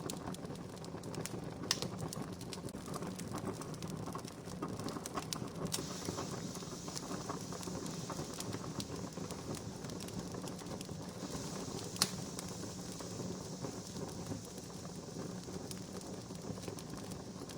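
Wood campfire burning, a steady crackle with scattered sharp pops, the loudest about 12 seconds in.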